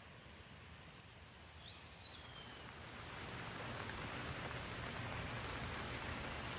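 Steady rain hiss that swells louder about halfway through, with a single short bird chirp about two seconds in.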